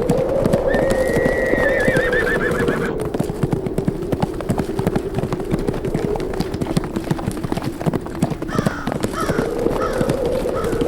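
Horses galloping, a dense patter of hoofbeats, over a steady, wavering howl of wind. About a second in, a horse whinnies for two seconds, the call quavering and falling in pitch. A few shorter horse calls come near the end.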